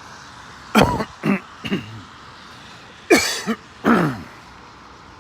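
Five short non-word vocal sounds close to the microphone, throat-clearing and cough-like, three in quick succession in the first two seconds and two more about a second later.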